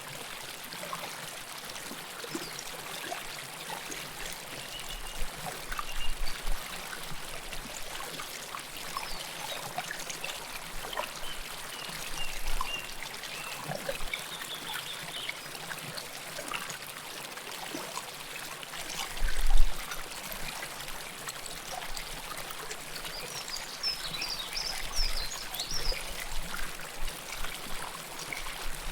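River water flowing close up, trickling and splashing steadily with many small gurgles and drips. A couple of brief low bumps stand out, the loudest about two-thirds of the way through.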